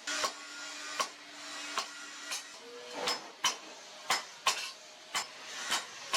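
Hand hammer forging leaf-spring steel on an anvil: about eleven sharp metallic blows, unevenly spaced half a second to a second apart, each ringing briefly, over a steady low hiss.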